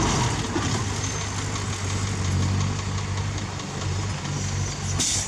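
Heavy diesel engine of construction machinery running steadily, with a brief sharp hiss or clatter near the end.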